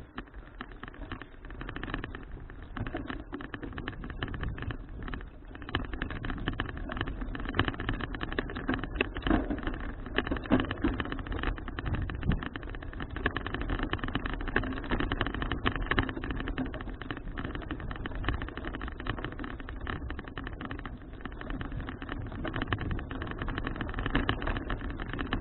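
Citi Cruiser CFH700 folding bicycle being ridden: steady road and wind noise with a fast, continuous crackle and rattle as the tyres and frame run over the road surface, picked up by a camera mounted on the bike.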